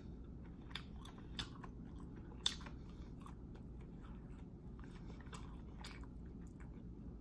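A person chewing a mouthful of basil hoisin chicken and rice close to the microphone: soft, irregular wet clicks and smacks, the sharpest about two and a half seconds in.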